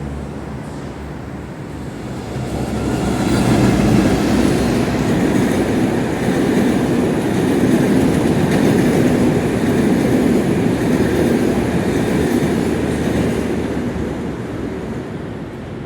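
A passenger train hauled by a General Electric diesel locomotive passes close by, its wheels and coaches rumbling on the rails. The noise swells about two seconds in, holds loud through the middle and fades near the end.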